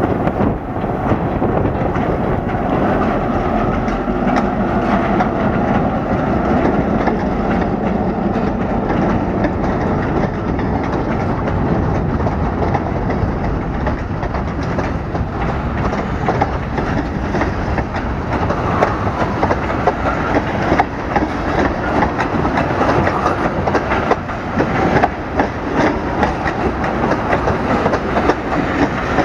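A freight train rolling past, with its wheels clacking over the rail joints. The clacks come sharper and more often in the second half.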